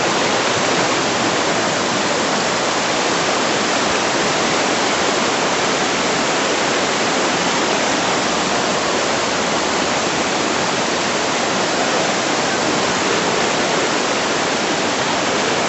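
Floodwater rushing in a steady, loud, unbroken roar of flowing water.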